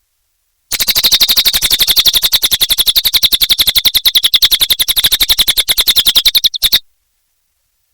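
Cililin bird singing a loud, fast trill of evenly repeated notes, about eleven a second. The trill starts just under a second in and stops with a short stutter well before the end.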